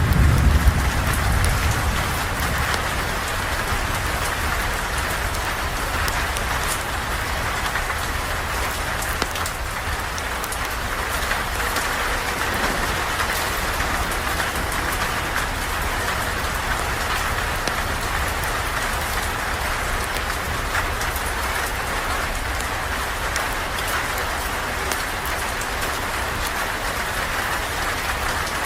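Steady rain falling and pattering on a surface. A low rumble fades away over the first couple of seconds.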